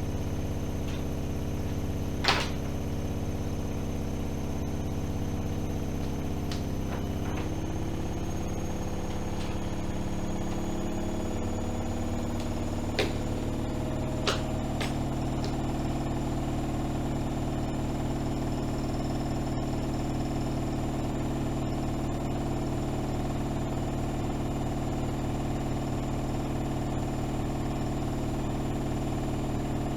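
AEG Öko-Lavamat 76730 washing machine spinning: the motor whine climbs in pitch over several seconds as the drum speeds up, then holds steady at high speed. A few sharp clicks are heard, one early on and two around the point where it levels off.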